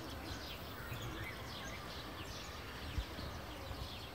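Small birds chirping, many short falling chirps scattered throughout, over a low outdoor rumble, with one soft thump about three seconds in.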